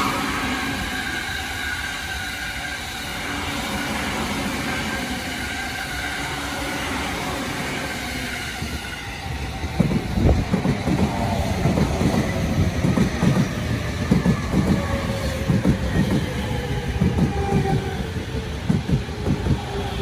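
Commuter trains: an E217-series rapid train runs steadily past on the far track, then about nine seconds in a yellow-banded E231-series Sobu Line local pulls in beside the platform, its wheels clacking over the rail joints. The local's traction-motor whine falls slowly in pitch as it brakes for the station stop.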